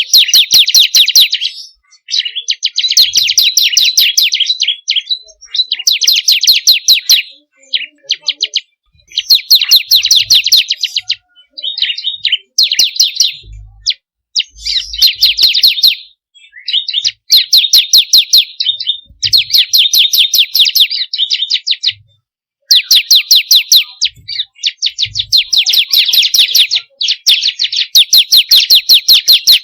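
Ciblek kristal, a prinia, singing loud, fast rattling trills of rapid repeated notes, in bursts of a second or two with short pauses between them.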